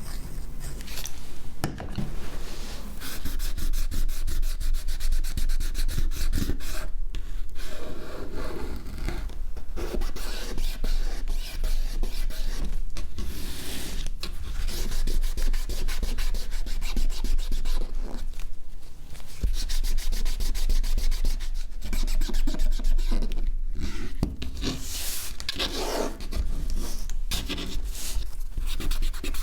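A small hand tool scraping and rubbing against the phone, in uneven runs of fine strokes with a few short pauses.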